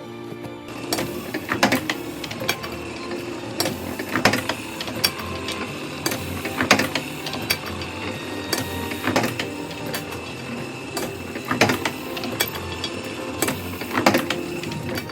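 Letterpress printing press running, clattering steadily with a sharp clack about every two and a half seconds as it cycles through impressions.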